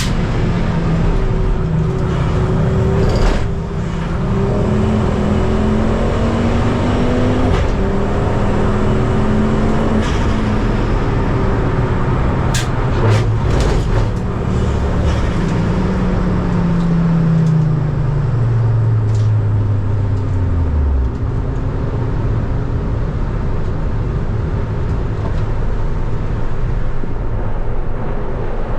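Ford Focus ST race car's engine running hard, its pitch climbing and dropping as it changes gear, with heavy road and wind noise. From about halfway through, the revs fall steadily for several seconds, then the engine settles at a lower, steadier note.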